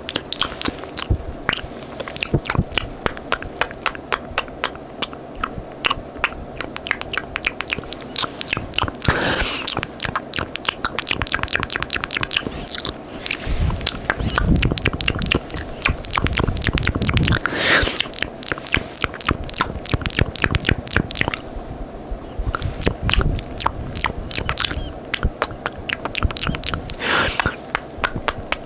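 Close-miked ASMR mouth sounds: fast, sticky wet kisses and lip smacks, a rapid run of sharp clicks, with a few brief hissing rushes in between.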